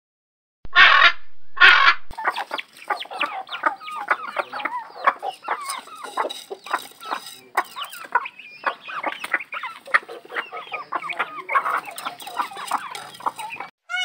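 Two harsh squawks from blue-and-yellow macaws, then a large flock of white broiler chickens clucking and chattering together, many short overlapping calls.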